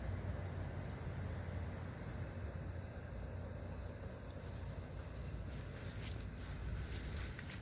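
Faint outdoor background noise: an even hiss with a low steady hum, and a few faint clicks near the end. No engine is running.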